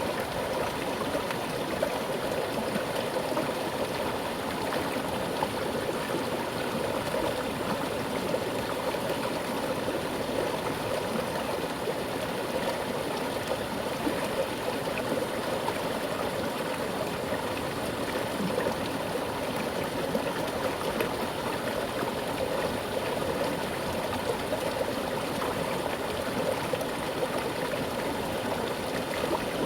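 Mountain river flowing with a strong current: a steady rush and gurgle of water over stones.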